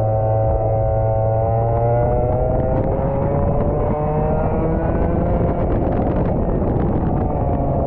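Rental go-kart engine running under load at a lap pace. Its pitch drops off about three to four seconds in, as when the kart slows for a corner, then climbs steadily as it accelerates again, with scattered crackles on the microphone in the middle.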